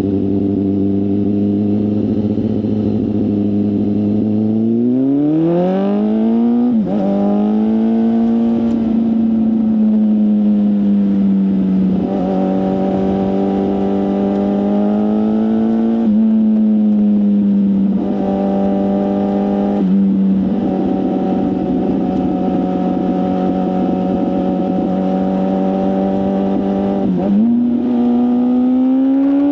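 BMW S1000RR's inline-four running through an aftermarket full exhaust system. It runs at steady low revs, then accelerates with the pitch climbing about five seconds in. It then holds a steady higher pitch, with short dips in revs every few seconds, and climbs again near the end.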